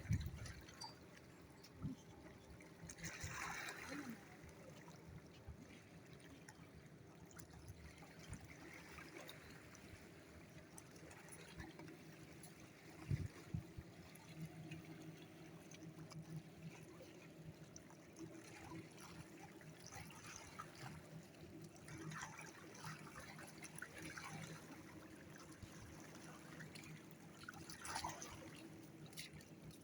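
Faint trickling and lapping water with a few small splashes, over a faint steady low hum.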